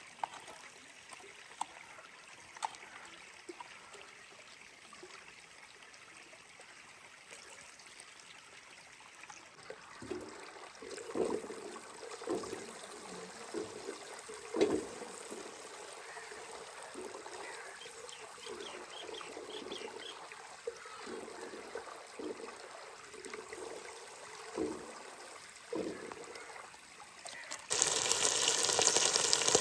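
Water trickling, with irregular splashes, then a loud rush of pouring or gushing water for about three seconds near the end.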